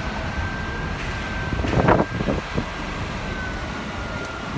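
Steady low rumble of a city bus and surrounding road traffic, with a faint high whine that rises slightly and falls again. About two seconds in there is a short loud noise, followed by two softer knocks.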